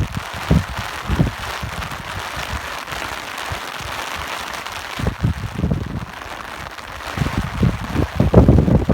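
Steady rain falling with wind gusting in irregular low buffets, which grow stronger near the end.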